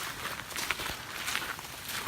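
Footsteps on a wet dirt trail at a walking pace, over a steady light hiss.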